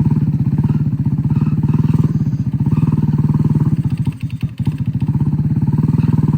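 Small engine of a moped with a swapped-in motor running at close range, a steady rapid pulsing that falters briefly about four seconds in.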